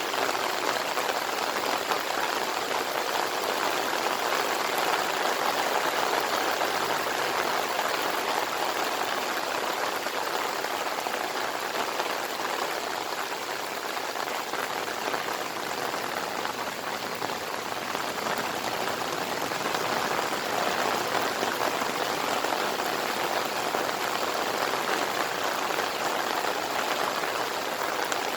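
Steady heavy monsoon-season rain pouring down, a dense even hiss of drops on surfaces that eases slightly midway and picks up again.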